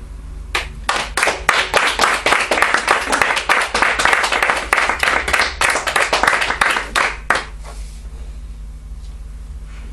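Small audience applauding at the end of a song, with separate handclaps clearly apart, starting about half a second in and dying away after about seven seconds.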